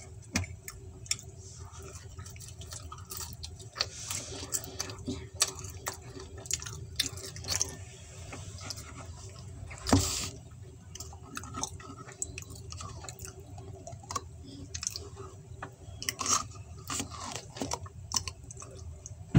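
Close-up chewing and mouth sounds of a person eating pizza, with many short irregular clicks and one louder noise about halfway through, over a steady low hum.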